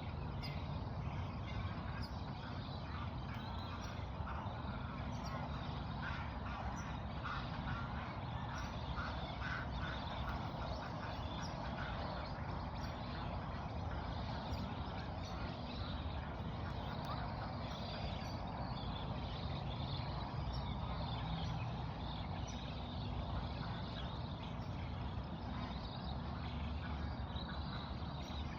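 Ducks quacking among other bird calls, over a steady low rumble. The calls cluster most thickly about a third of the way in.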